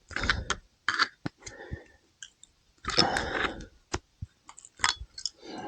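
Steel needle-nose pliers clicking and scraping against a motorcycle's front brake caliper and pads as the caliper pistons are levered back in to make room for new pads. Several sharp separate clicks, with two short scrapes at the start and about three seconds in.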